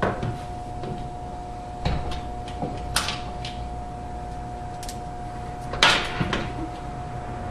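Sharp knocks and clicks of dishwasher parts being handled and refitted inside the tub: a few separate knocks spread out, the loudest about six seconds in, with a steady faint tone beneath.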